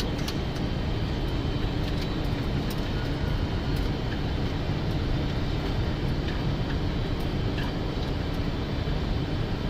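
Steady rushing noise inside a Boeing 747 cockpit on approach, from airflow and the engines, with a faint steady hum and a few small clicks.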